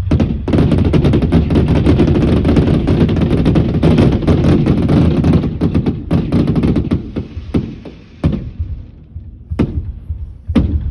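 Fireworks going off in a rapid barrage of bangs and crackles that thins after about seven seconds to a few separate loud bangs near the end.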